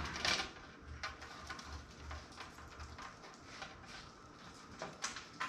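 Scattered light clicks, knocks and rustles of a PC power supply and its cables being handled and fitted into a toaster oven's thin metal body, with the sharpest knock just after the start and a few more near the end.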